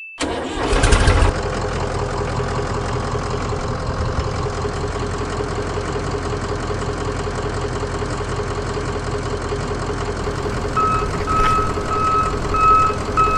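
Vehicle engine running steadily. About eleven seconds in a reversing beeper joins it, beeping about twice a second.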